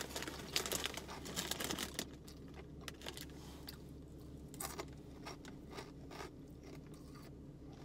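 Close-up crunching and chewing of crunchy veggie straws, a dense run of crunches over the first few seconds, then occasional crunches.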